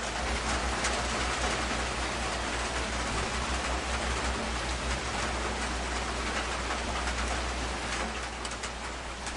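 Rain falling on a metal roof: a steady hiss of rain with single drops ticking on the sheet metal, over a low rumble.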